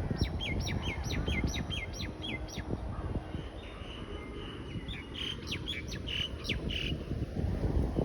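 A songbird singing runs of quick, repeated down-slurred chirps, a pause with a short held note, then another run, over a steady low rumbling noise.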